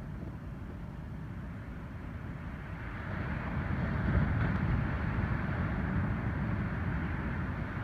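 Ocean surf washing on a beach as typhoon swell arrives, a breaking wave swelling louder about three seconds in, over a steady low rumble.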